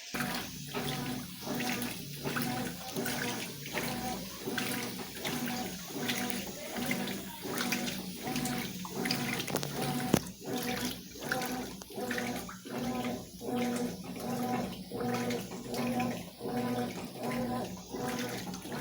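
Consul CWS12 washing machine churning during the rinse: motor hum and sloshing water swell and dip in an even rhythm, about one and a half times a second, as the wash action reverses back and forth. The churning starts right at the beginning.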